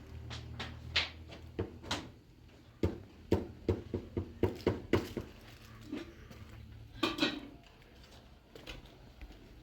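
A string of light knocks and clatters of things being handled, with a quick run of about eight taps in the middle.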